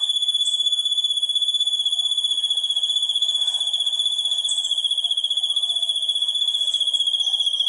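An insect trilling without a break: one loud, steady, high-pitched buzz with a fast pulse.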